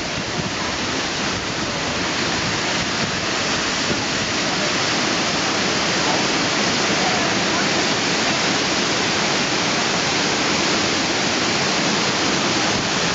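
Cascading water rushing steadily, growing a little louder over the first few seconds and then holding even.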